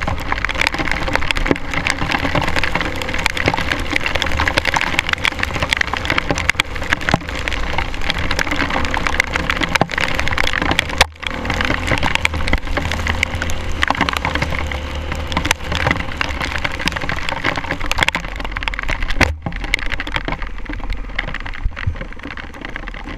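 Dense crackling and spattering on an action-camera microphone, the sound of rain and wet debris hitting the camera during a dirt bike ride in pouring rain, over a steady low rumble. The crackle cuts out briefly twice, about 11 and 19 seconds in.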